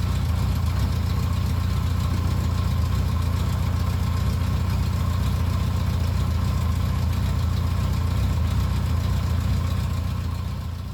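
Yamaha XJ600 S's air-cooled inline-four engine idling steadily with an even low hum, after its clutch repair. It fades out at the very end.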